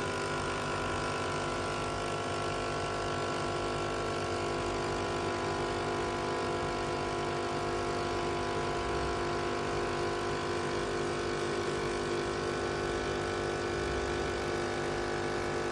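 Nespresso coffee machine brewing a lungo: a steady mechanical hum and whir at an even pitch and level, loud enough to sound like it's breaking.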